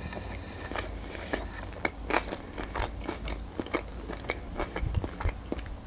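Close-miked chewing of a sushi roll, with many small irregular mouth clicks.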